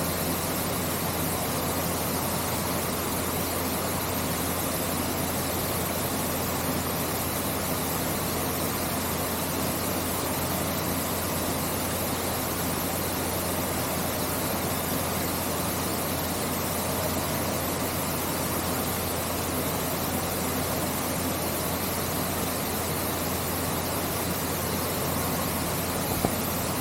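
Artificial rock waterfall pouring into an indoor pool: a steady, unbroken rush of falling water, with a low hum underneath.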